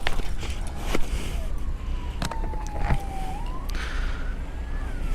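An emergency vehicle's siren wailing, one tone that slowly falls, climbs about three seconds in, then falls again, over a steady low traffic rumble with a few sharp clicks.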